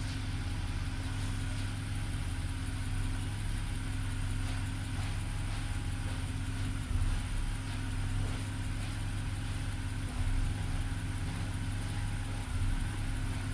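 A 2010 BMW 328i's inline-six petrol engine idling steadily.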